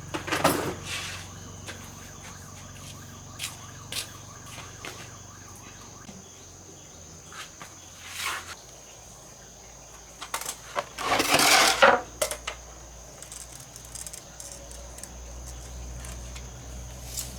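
Scattered clicks and metallic clinks of things being handled, with a louder burst of clatter about eleven seconds in, over a faint steady high-pitched hum.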